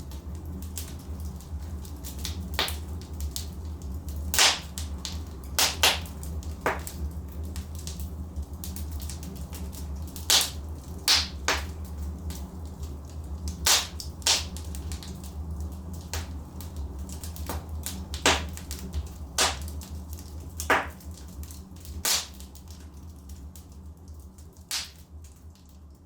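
Wood fire burning in a fireplace, crackling with irregular sharp pops every second or two over a steady low rumble of the flames. It grows quieter near the end.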